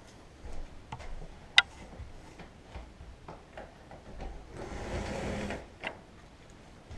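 Footsteps and handling knocks, irregular, with one sharp click about a second and a half in and a rasping scrape lasting about a second near five seconds in.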